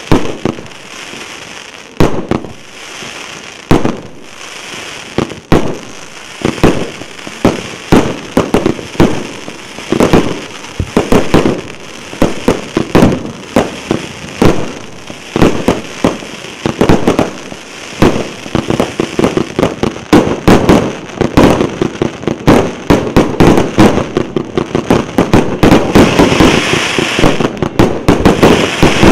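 A 1.2-inch, 142-shot firework cake firing its volley: a long run of sharp launch thumps and aerial bursts, spaced out at first and then coming faster and overlapping. Crackling builds near the end.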